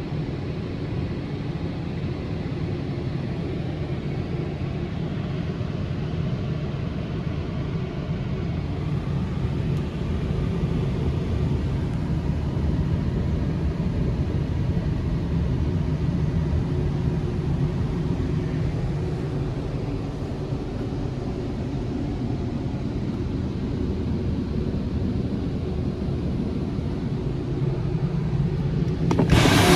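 Istobal M1 rollover car wash machine running with a steady low rumble, heard muffled from inside the car. Near the end a loud hiss of water spray starts suddenly.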